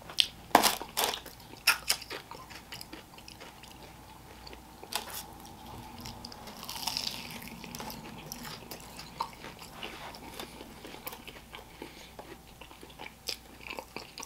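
Close-up eating of crispy fried chicken: loud crunches of the crust in the first two seconds, then quieter chewing with small crackles.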